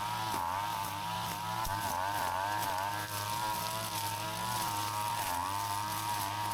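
Gas brush cutter (string trimmer) engine running at high speed, its buzzing pitch wavering up and down.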